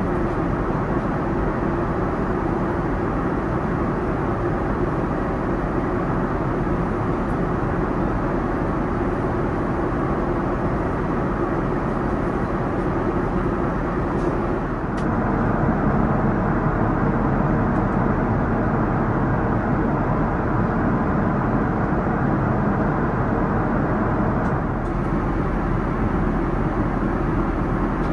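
Steady engine and airflow noise of a Boeing 787-9 airliner, with no distinct events; it gets louder and fuller about halfway through, then eases slightly near the end.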